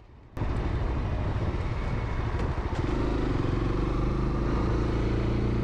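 Honda CB300R's single-cylinder engine running on the move, heard with road and wind noise. It cuts in sharply about half a second in, and its pitch rises slightly in the last few seconds as the bike speeds up.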